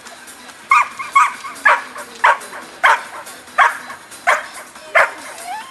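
Agility dog barking repeatedly in excitement, about eight barks, roughly one every two-thirds of a second, starting just under a second in.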